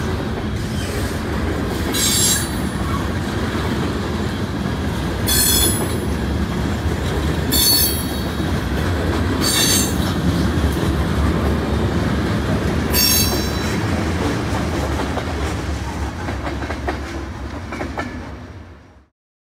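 Freight cars rolling past on steel rails: a steady, loud rumble of wheels, with short high-pitched wheel squeals five times. It cuts off suddenly near the end.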